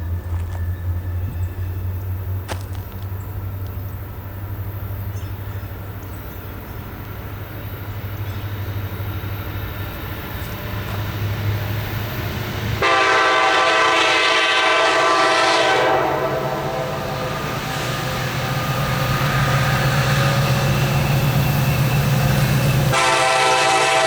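Diesel freight locomotives approaching with a steady low engine rumble, then, about halfway through, the lead locomotive's air horn sounds a loud chord in long blasts, with the engines working louder underneath.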